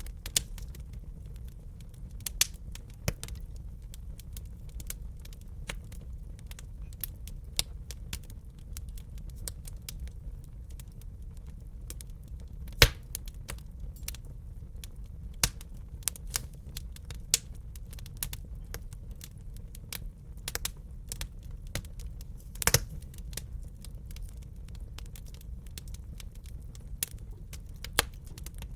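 Wood fire crackling in a fireplace: irregular sharp pops and snaps over a steady low rumble of the flames, with a few louder pops about 13 and 23 seconds in.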